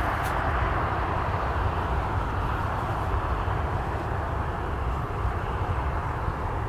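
Jet airliner engines running: a steady, even noise with a deep rumble underneath.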